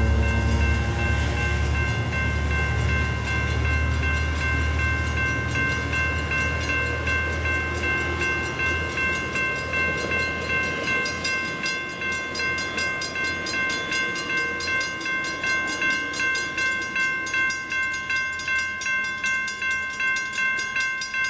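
A Metrolink commuter train passing, its low rumble fading away over the first dozen seconds. A railroad crossing warning bell rings steadily throughout, its strokes standing out at about two a second once the train has gone.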